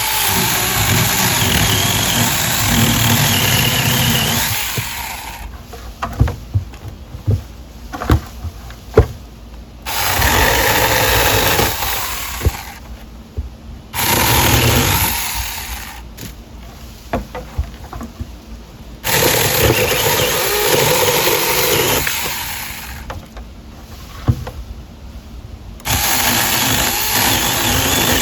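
Saker battery-powered mini chainsaw cutting through tree limbs: five bursts of the motor and chain running, each starting and stopping abruptly as the trigger is pulled and released, with sharp knocks of wood between the cuts.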